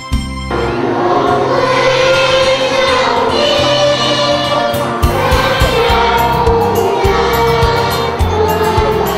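Music with a group of voices singing together, starting under a second in, over a low rhythmic bass beat.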